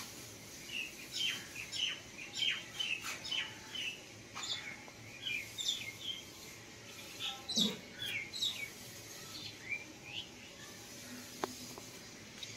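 Small birds chirping: many short, quick calls, most dropping in pitch, in irregular flurries, with one lower falling note about halfway through.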